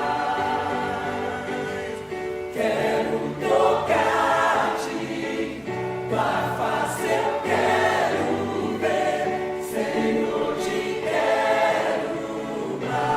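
A mixed church choir singing a hymn in sustained sung phrases.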